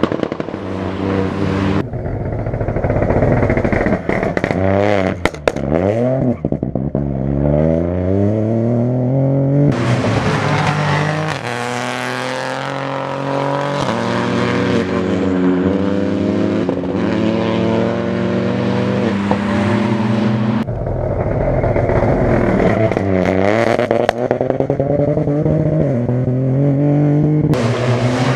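Rally car engines revving hard through a stage. The pitch drops on lifts and downshifts and climbs again through the gears, in several separate runs cut one after another.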